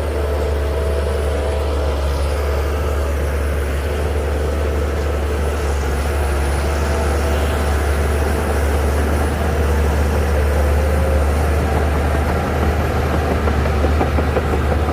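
Shantui DH17C2 bulldozer's heavy diesel engine running steadily with a deep, even hum.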